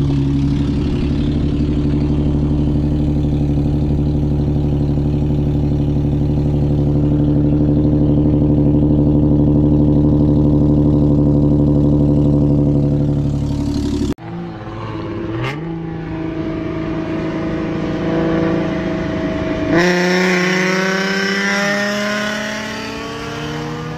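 Infiniti G37 sedan's V6 idling steadily through a muffler-delete exhaust, heard at the rear tips. After about 14 seconds, the sound switches to the same engine heard from inside the moving car, with its pitch climbing as it accelerates, along with wind and road noise.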